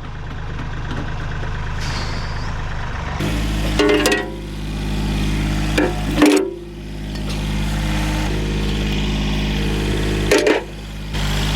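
Tractor engine running, its throttle raised about three seconds in, with a few sharp metal clanks as the loader handles scrap.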